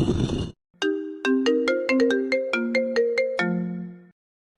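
A short phone ringtone melody in a bright struck, marimba-like tone: about a dozen quick notes, ending on a longer low note that fades out. Just before it, a noisy sound cuts off about half a second in.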